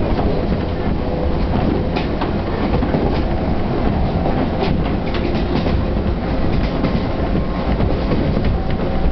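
Chichibu Railway 1000 series electric train (ex-JNR 101 series) running, heard from inside the carriage: a steady rumble of wheels on rail with scattered clicks from the track and faint steady tones.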